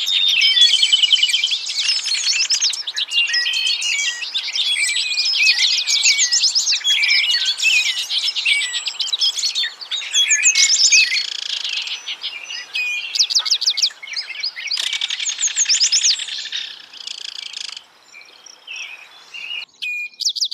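A chorus of many songbirds singing and chirping at once, their rapid trills and whistles overlapping densely. It thins to a few scattered calls in the last few seconds.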